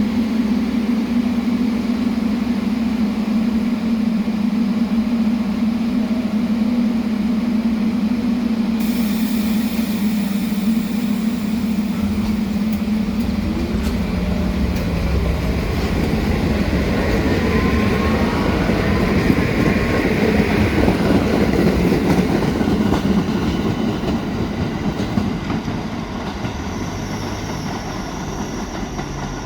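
Staten Island Railway electric train: a steady electrical hum, then a rising motor whine as it gets under way about halfway through. The loud rumble of the train passing and running on the rails follows, then fades as it moves off.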